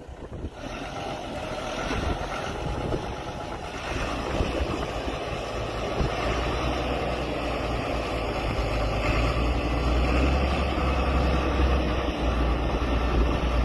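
A motor vehicle's engine running steadily, with a deep rumble that grows heavier about halfway through.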